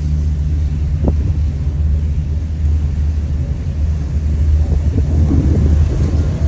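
Steady low rumble and hum of a cable car in motion, with a brief click about a second in.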